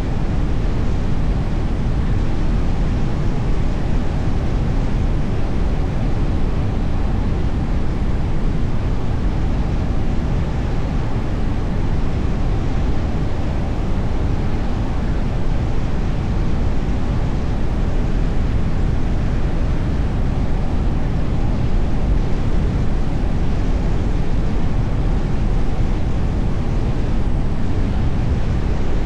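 Steady rumble of a car driving: engine, tyre and road noise with some wind, even throughout with no separate events.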